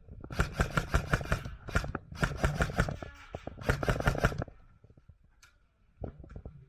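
Airsoft gun firing rapid full-auto bursts, about three strings of fast clicking shots in the first four and a half seconds, then a few scattered faint ticks.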